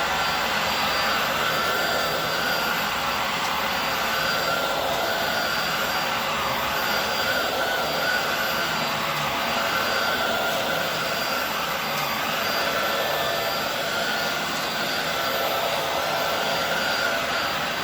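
Hoover Air Steerable WindTunnel upright vacuum cleaner running steadily on a rug. Its high motor whine dips and rises every second or two as it is pushed back and forth.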